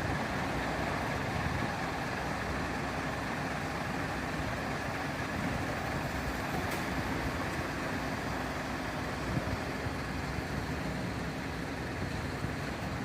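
A large vehicle's engine running steadily at idle, an even rumble with a faint hiss above it.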